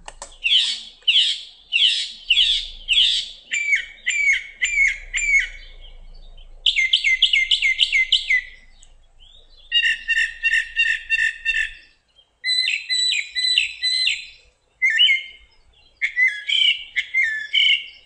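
Northern mockingbird singing: one phrase repeated several times, then a switch to a different phrase, again and again, the song pattern that marks the species.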